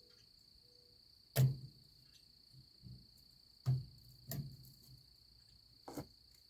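A handful of short, sharp metal clinks and knocks from S-cam brake parts and tools being handled on a semi-trailer axle, spaced a second or more apart, over a steady high-pitched whine.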